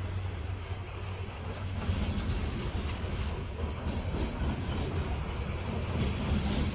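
Diesel-hauled freight train rolling by, a steady low rumble with wheel noise on the rails.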